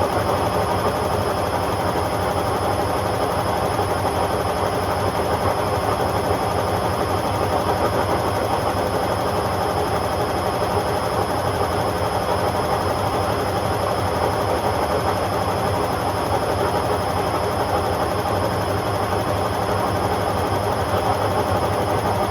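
Hotpoint Aquarius WMA50 washing machine spinning at a steady speed on its non-colourfast cotton 40 programme: a loud, even rush of drum and motor noise with a thin high whine over it.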